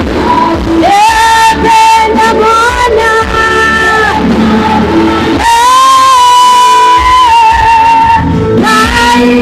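Worship song with voices holding long sustained notes over musical backing.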